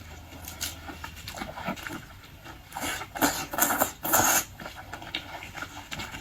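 Close-up eating sounds of someone eating boiled seafood: chewing and mouth noises, with a run of louder bursts between about three and four and a half seconds in.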